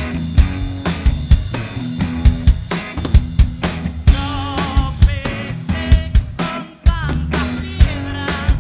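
Rock band playing: a drum kit keeps a steady beat with kick and snare under a bass line, while wavering lead guitar notes bend above it. The band drops out for a moment just before the seventh second and crashes back in.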